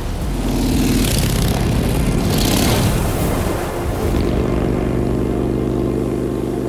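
Motorcycle engine running with loud wind rush, the rush swelling twice in the first three seconds, then a steady engine note from about four seconds in.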